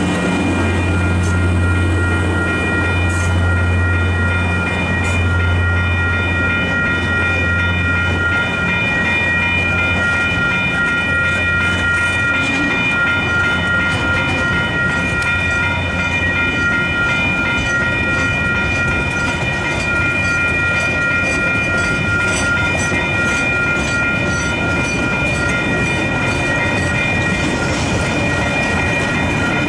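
KiwiRail DSG diesel locomotive running past with a low engine drone, followed by its wagons rolling through with a regular clickety-clack of wheels over the rail joints. A steady high ringing from the level crossing's warning bells carries on throughout.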